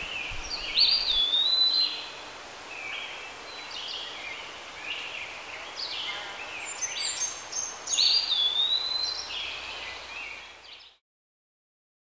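Fantail flycatcher singing: high whistled song phrases, the same sweeping phrase twice about six seconds apart with shorter chirps between. The birdsong cuts off suddenly about a second before the end.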